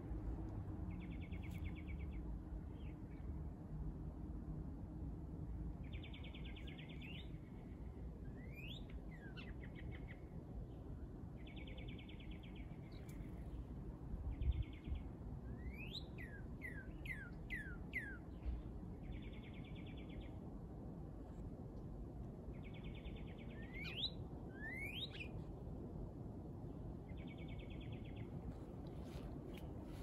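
Songbirds singing over a steady low background rumble. One song is a short dry trill, about a second long, repeated every five seconds or so; the other is a run of quick rising notes, up to five in a row. A dull low thump comes about halfway through.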